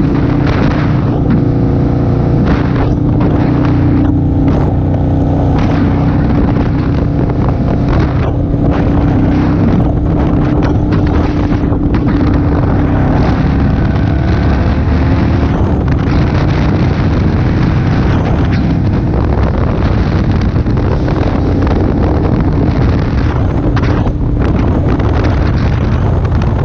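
Motorcycle engine running steadily at road speed, with wind rushing over the camera microphone.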